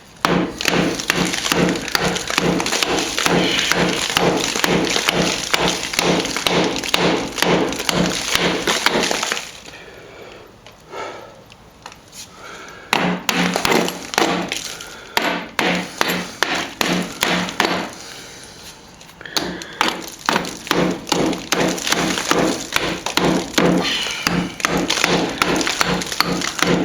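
Hammer blows on a chisel chipping out rock-hard old patching filler from a crack in a solid plaster wall, about three strikes a second, in three runs with short pauses between them.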